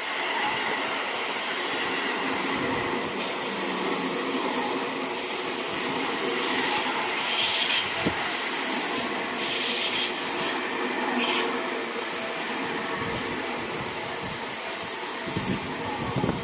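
Seibu Ikebukuro Line train passing over a level crossing, a steady running noise with a few short bursts of high hiss partway through.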